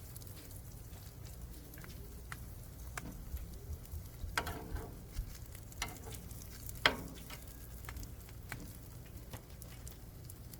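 Quesadilla frying in a buttered pan: a faint steady sizzle with scattered light clicks, and two louder clicks from the spatula about four and seven seconds in.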